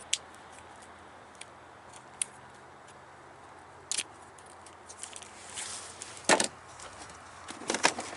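Small metal parts and keys clinking and rattling as loose spare parts are handled and rummaged through. The clicks are sparse at first and grow busier in the second half, with the loudest clank a little over six seconds in.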